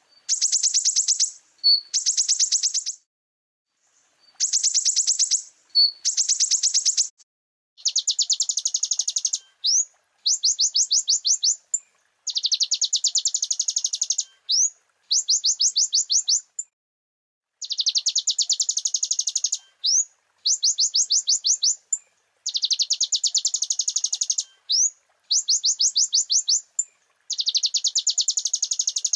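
Kolibri ninja sunbird (konin) singing: a run of rapid, high trills of about a second each, separated by brief pauses, with short rising notes slipped in between some of them.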